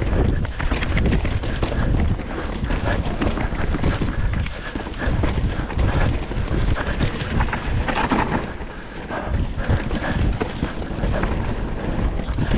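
Mountain bike riding fast over a rocky trail: a continuous, irregular clatter of tyres, chain and frame knocking over stones and roots.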